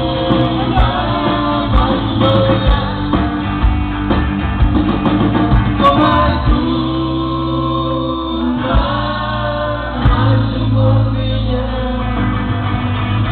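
Live rock band playing, with drums and bass under voices singing a held, melodic line.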